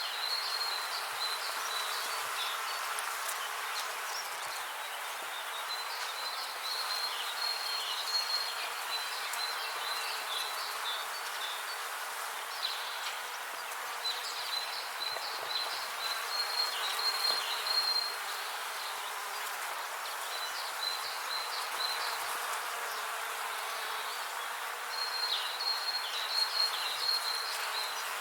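Waterfall rushing steadily, with a small bird singing high, rapid trilling phrases that come and go several times over the water.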